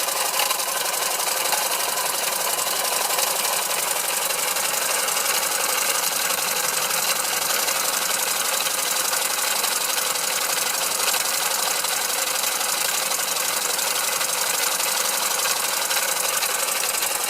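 Small 1912 hand-built oscillating model engine running on compressed air, driving a toy line shaft and tin toy models: a steady, rapid mechanical clatter with an airy hiss.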